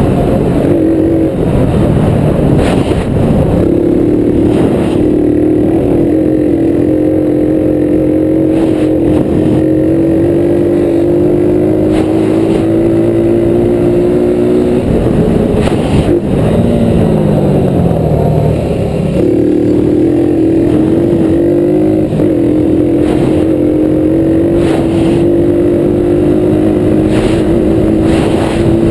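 Honda ATC 70 three-wheeler's single-cylinder engine running hard, its pitch creeping slowly up for over ten seconds. About halfway the revs fall away in a downward glide, then climb back up and hold.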